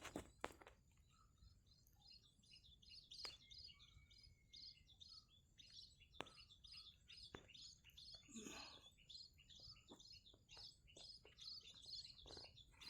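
Kingfisher calling faintly in a rapid series of short, high chirps, about four a second, with a few sharp clicks and a brief rustle of handling at the nest hole.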